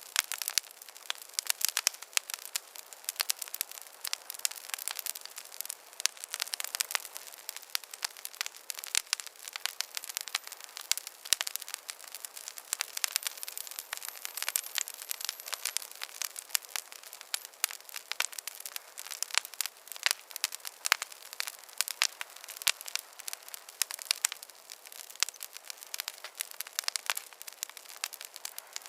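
Campfire crackling steadily: many irregular sharp pops and snaps over a soft hiss of burning wood.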